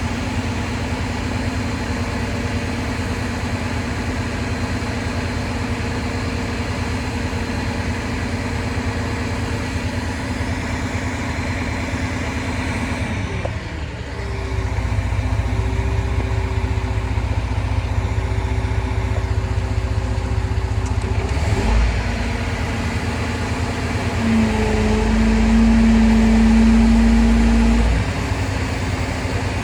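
Diesel engine of a crane truck running steadily, its note shifting to a different pitch about halfway through and growing louder for a few seconds near the end, as the load on it changes.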